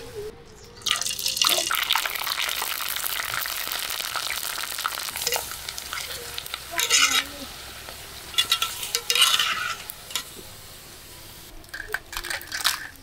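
Dried rava sandige sizzling as they deep-fry in hot oil, with a few clinks of a wire skimmer against the pot. The sizzle starts about a second in and dies down after about ten seconds; near the end, a few light clicks as the fried pieces are tipped into a mesh strainer.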